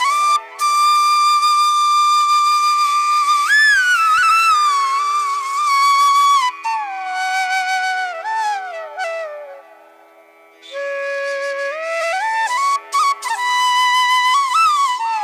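Background music: a flute melody of held notes with slides and bends between them over a steady drone, briefly dropping away about ten seconds in.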